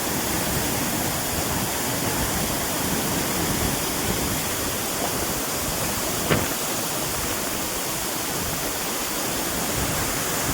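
Steady rushing of water, with a single short click about six seconds in.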